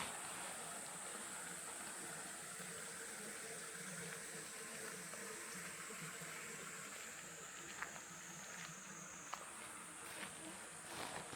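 Summer night chorus of insects: a continuous high-pitched trill, over a low, faintly pulsing chorus of frogs. A few soft clicks come near the end.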